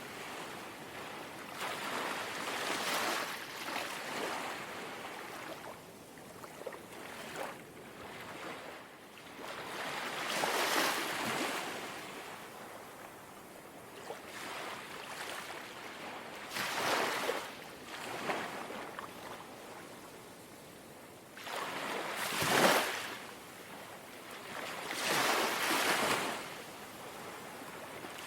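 Small, gentle sea waves lapping and washing on the shore, each swell rising and falling in a hiss every few seconds; the loudest breaks about 22 seconds in.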